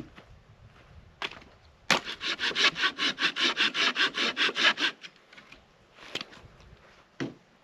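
A hand saw cutting through wood for the campfire, in about three seconds of quick back-and-forth rasping strokes. A few single sharp wooden knocks come before and after it.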